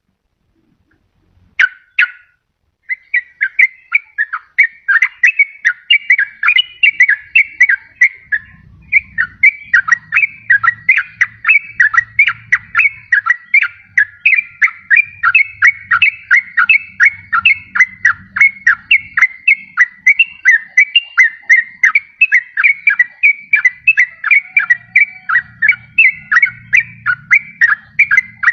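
Yellow-vented bulbul (trucukan) singing a rapid, unbroken run of bubbly notes at about four a second, after a short pause and one brief opening phrase. This is the chattering song used as a lure to draw in wild bulbuls or to set a quiet caged one singing.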